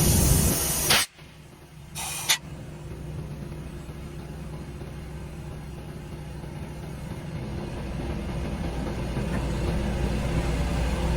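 A loud hiss of compressed air that cuts off about a second in, a second short hiss a moment later, then a heavy truck engine running with a steady low rumble that grows louder near the end.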